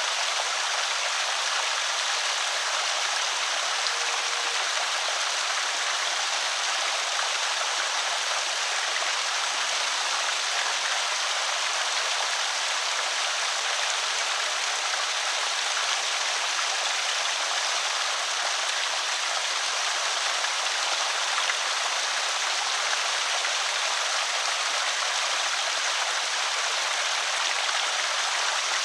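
Water pouring steadily over a small creek spillway, a constant splashing rush with no change in level.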